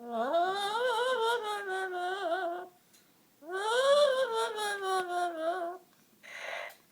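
Amazon parrot singing in two long, drawn-out wavering notes that slide up and down in pitch, followed by a short harsh burst near the end.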